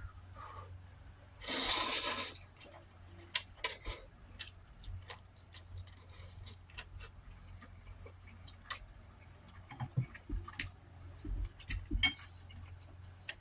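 A loud wet slurp about a second and a half in, then scattered small clicks and mouth noises of eating.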